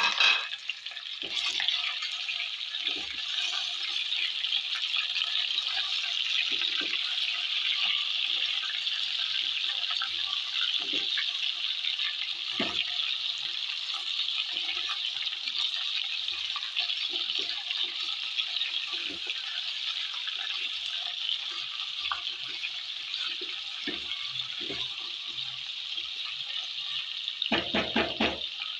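Raw chicken pieces sizzling in hot oil and browned garlic in an aluminium pot, a steady hiss. A spatula knocks and scrapes against the pot now and then, more busily near the end.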